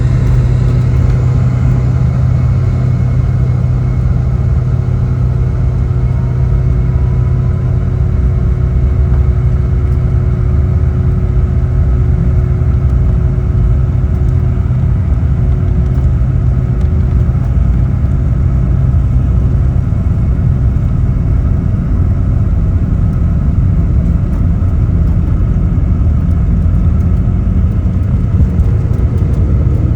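Cabin noise inside a Boeing 717-200 as it takes off: a loud, steady drone from its tail-mounted Rolls-Royce BR715 turbofans over a deep rumble. The strong low hum eases a little about twenty seconds in.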